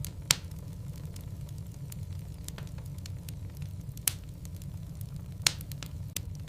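Logs burning in a wood fireplace: sharp crackles and pops scattered irregularly, three of them standing out loudest, over a steady low rumble.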